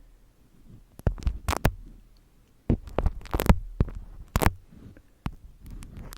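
Close-miked sharp taps and clicks of objects being handled, several of them, with a cluster in the middle, over a steady low hum.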